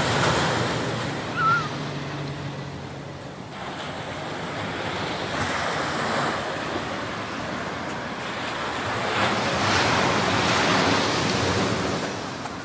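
Ocean waves washing onto the shore, the surf swelling and fading twice, loudest near the end. A short, high, wavering chirp comes about a second and a half in.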